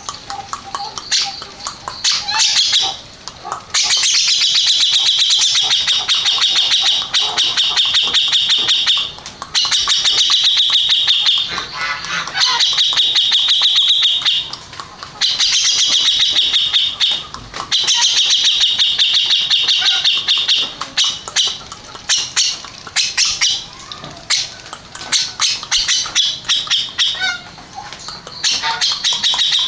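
Grey-cheeked bulbul (cucak jenggot) singing loudly: long runs of rapid, high repeated notes, each run lasting a few seconds with short breaks between, turning into shorter, choppier phrases in the last third.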